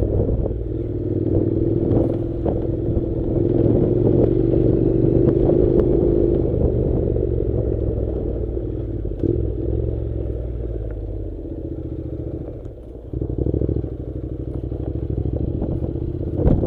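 Honda NC700 motorcycle's parallel-twin engine running steadily while riding a dirt track, with clattering over the rough ground. Near the end the engine drops off briefly, as when easing the throttle, then picks up again.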